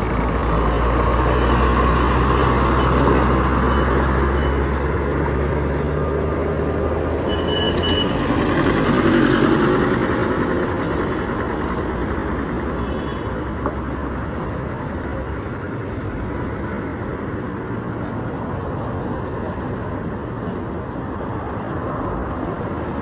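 Road traffic: vehicles running and passing on a busy city road. A heavy engine drones close by for about the first eight seconds.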